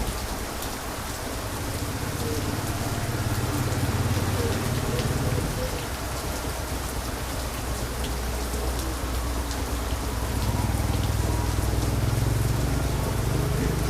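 Heavy rain falling steadily, a dense hiss with many fine drop ticks, over a low rumble that swells twice.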